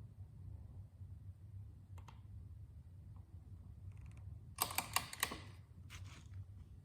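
Clicks from a torque wrench being handled and set: a faint click about two seconds in, a quick run of sharp clicks just past the middle and one more soon after, over a low steady hum.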